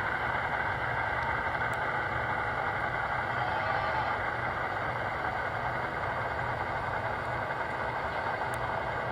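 Sound-equipped Broadway Limited Imports model diesel locomotive playing its recorded diesel engine idle through its small onboard speaker, a steady running sound with the locomotive standing still.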